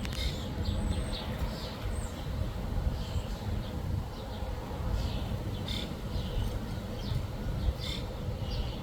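Backyard birds chirping, many short high calls scattered irregularly, over a steady low rumble.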